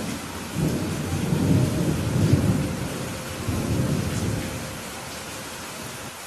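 Steady heavy rain hissing, with a roll of thunder that rumbles in about half a second in, swells to its loudest around two seconds and dies away by about five seconds.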